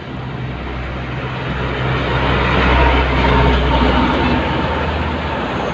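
Heavy truck passing close by on the road: low engine drone and tyre noise build up to a peak about halfway through, then slowly fade as it moves away.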